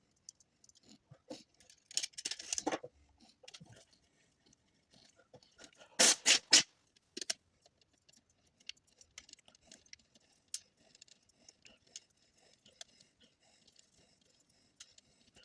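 Hands handling small hard objects: scattered clicks and ticks, a scratchy rattle about two seconds in, and a loud cluster of three or four clacks about six seconds in.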